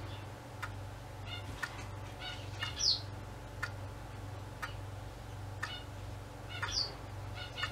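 A bird chirping in short runs, with a quick falling whistle three times, over a steady low hum.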